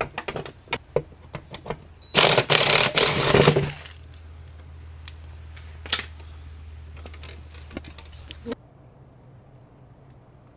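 Metal tractor parts and hand tools clinking and knocking as the seat assembly is taken apart. About two seconds in comes a loud rushing noise lasting a second and a half, then a steady low hum under further clicks that cuts off about eight and a half seconds in.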